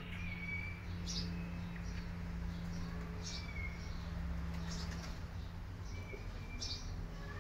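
Small birds chirping in short, high tweets, repeated every second or so, over a steady low hum.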